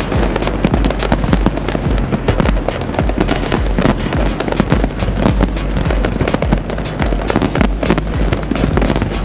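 Fireworks display going off in a dense, continuous run of rapid crackles and pops, with no pause, over loud music with a heavy bass.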